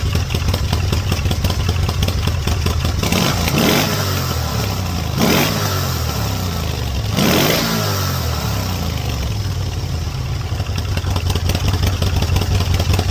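Moto Guzzi California 1400's V-twin idling through its stock exhausts, which have had the catalytic converters and baffle plate cut out. It is revved briefly three times in the middle, each rev rising and dropping back to idle.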